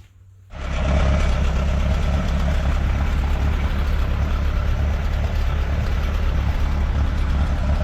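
1948 Allis-Chalmers C tractor's engine idling steadily. It comes in suddenly about half a second in.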